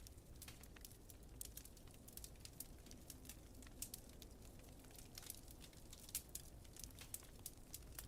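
Wood fire crackling quietly, with many small irregular pops and snaps every second over a low steady rumble.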